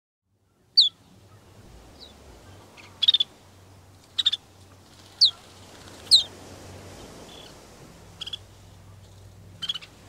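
A bird calling about once a second: short, sharp high notes that slide steeply down in pitch, alternating with brief stuttering chirps, over a faint low background hum.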